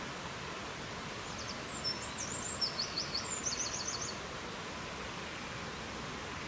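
Steady rushing wind noise, with a small songbird singing one short phrase of quick, high chirps and trills starting about a second and a half in and lasting about two and a half seconds.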